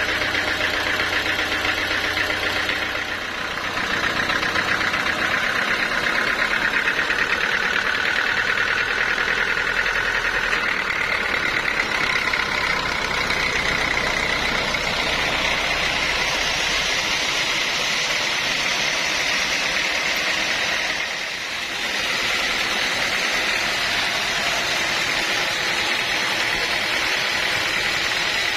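Sawmill machinery running steadily, with a brief drop in level about three and a half seconds in and again near twenty-one seconds.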